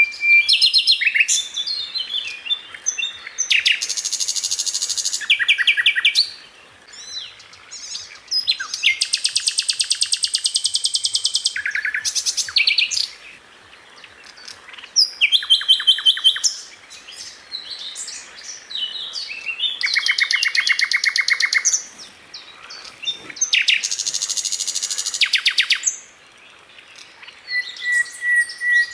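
A sikatan londo flycatcher singing a fast, dense song. High rapid-fire trills, each about two seconds long, come about five times, with quick varied chirps and short whistles between them.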